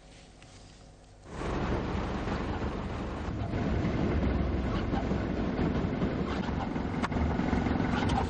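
Storm street noise: steady rushing of heavy rain and wind mixed with passing vehicle traffic, starting abruptly about a second in, with a sharp click near the end.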